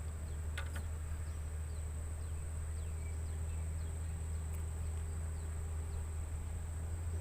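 Insects droning on one steady high-pitched note over a steady low rumble, with a few faint short chirps and a couple of clicks about half a second in.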